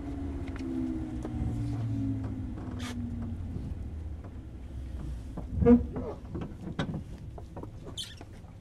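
Railway sounds beside a stopped 103-series electric train: a low whine that falls slowly in pitch over the first few seconds and fades out. A little over halfway through comes a short, loud pitched tone, then scattered clicks and knocks.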